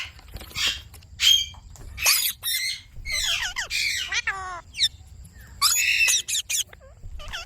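Indian ringneck parrot squawking: a run of short, shrill calls with pauses between them, some broken into quick rattling trills, the loudest cluster a little after the middle.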